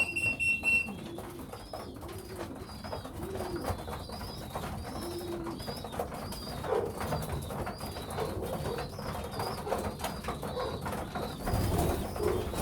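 Young racing pigeons cooing in the loft, low repeated coos over many small clicks and taps.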